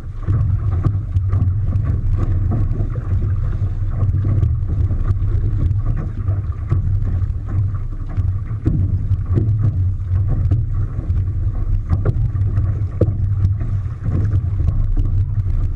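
Wind rumbling on the microphone over water, with many short splashes of water against a boat.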